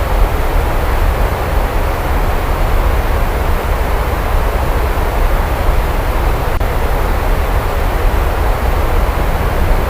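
Heavy rain falling steadily, with a deep continuous low rumble beneath it.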